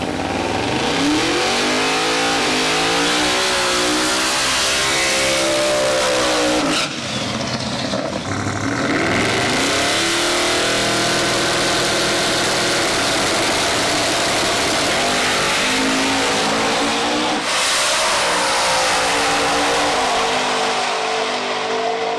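Drag-racing car's engine at full throttle accelerating down the strip. The pitch climbs steadily, then drops sharply at two gear shifts, about seven and seventeen and a half seconds in, before climbing again.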